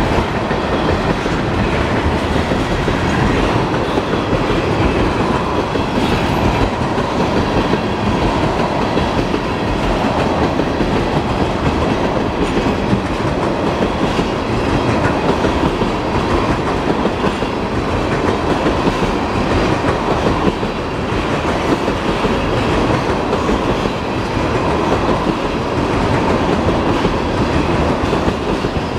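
Freight train cars rolling past at close range, a steady rumble with the wheels clicking over the rail joints.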